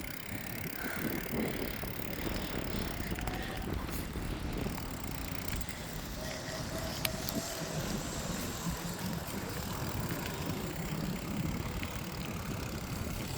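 A bicycle being ridden: steady rolling rumble of the tyres on pavement, mixed with wind noise on the microphone.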